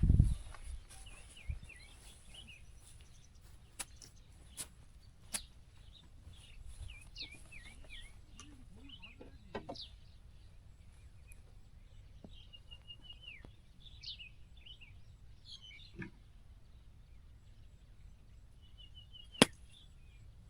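Small birds chirping on and off, with a low thump at the start and a few faint clicks. Near the end a single sharp click, a golf club striking the ball on a chip shot.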